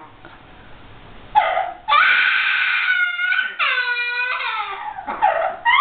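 Amazon parrot imitating a person crying: a run of drawn-out, wavering wailing calls, starting about a second and a half in.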